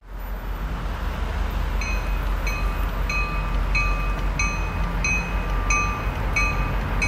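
Railroad bell ringing steadily about twice a second, starting about two seconds in, over the low rumble of a train.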